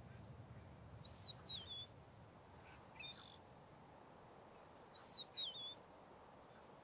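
A bird calling twice, about four seconds apart: each call is a short high whistled phrase of two notes, an arched note followed by a downward-hooked one, with a fainter note in between, over a quiet steady outdoor background.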